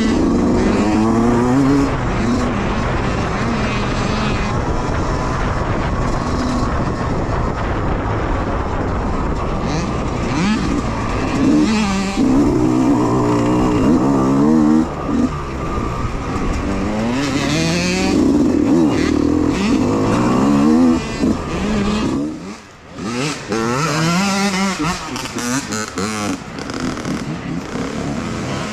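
Youth dirt bike engines revving hard, rising in pitch and dropping back again and again as they shift through the gears, with several bikes overlapping. The sound dips briefly about three-quarters of the way through, then picks up again.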